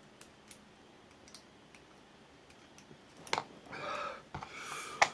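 Small metallic clicks of lock picking tools working the pins inside an ABUS 83AL/45 padlock cylinder, scattered and faint, with a sharper click about three seconds in and a loud one near the end. Between them, two short, heavy breaths.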